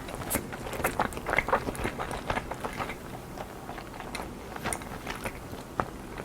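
Close-miked chewing and mouth sounds of a person eating, a quick run of small clicks and smacks that thins out after about three seconds.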